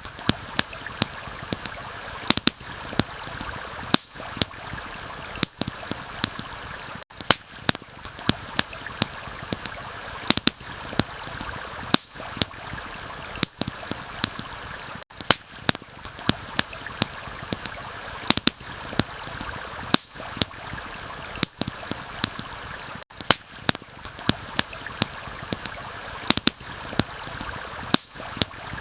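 A stream rushing steadily, with the frequent sharp, irregular pops and crackles of a wood campfire over it.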